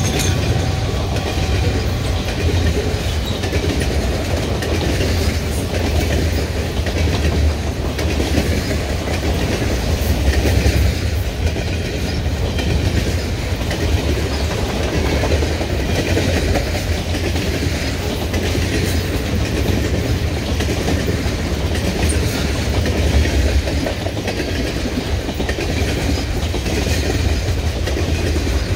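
Canadian Pacific freight train of covered hoppers and tank cars rolling past close by: a steady, loud rumble of steel wheels on the rails.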